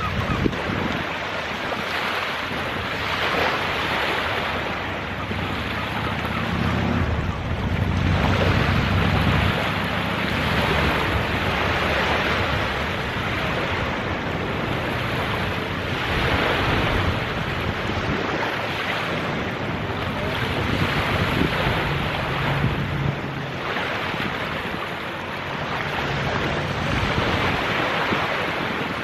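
Small waves washing up on a sandy beach, the wash swelling and fading every few seconds, with wind buffeting the microphone in gusts, strongest between about six and ten seconds in.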